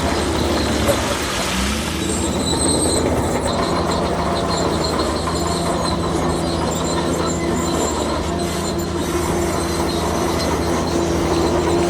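Bulldozer's diesel engine running steadily under the clatter of its steel crawler tracks, with thin high-pitched squealing from the tracks.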